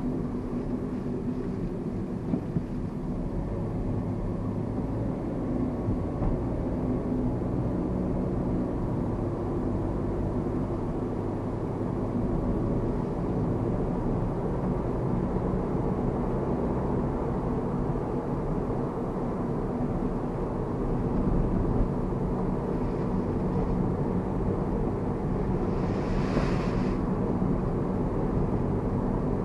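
2009 Mazda Verisa being driven: steady engine and road rumble heard from inside the car, with a brief hiss near the end.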